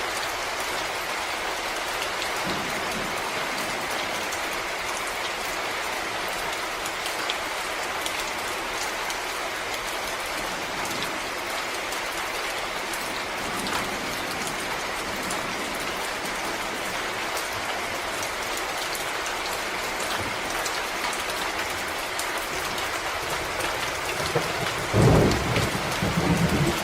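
Steady rain falling in a forest: an even hiss with many separate drops ticking on leaves and ground. Near the end a louder low rumble swells up and carries on.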